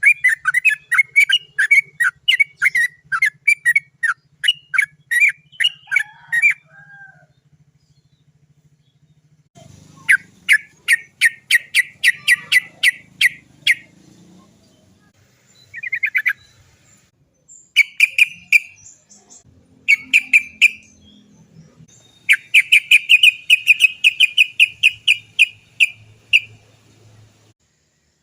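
Yellow-vented bulbul calling in fast runs of sharp, repeated "cok cok cok" notes, several rolling runs of about four to six notes a second broken by short pauses.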